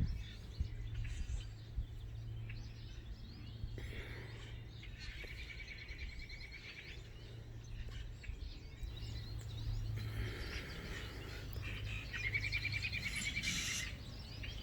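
Small songbirds chirping and trilling in several bursts, over a steady low drone of distant mowing and tilling machinery.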